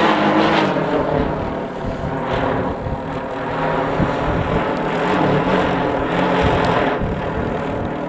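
Kite fluttering and humming in strong wind: a steady droning buzz that swells and fades every couple of seconds.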